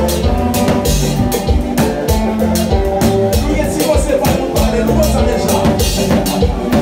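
Konpa band music playing loudly, with a steady drum-kit beat over bass and keyboard-like chords.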